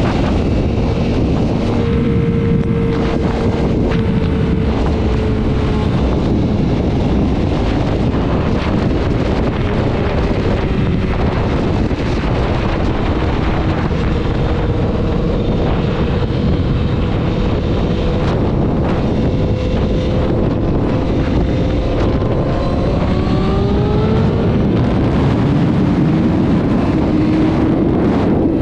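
Sport motorcycle engine running at speed, with heavy wind rushing over the microphone. The engine note holds fairly steady, then climbs in pitch in the last third as the bike accelerates.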